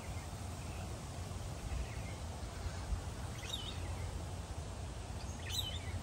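Outdoor low rumble, likely wind or handling noise on the microphone, with a bird giving two short chirping calls in the second half.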